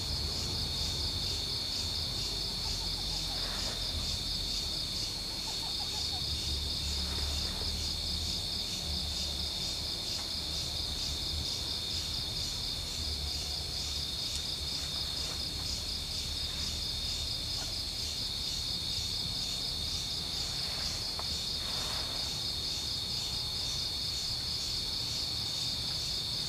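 Steady, high-pitched chorus of insects, crickets, trilling with a fast, even pulse. A low rumble runs beneath it, with a few faint brief rustles.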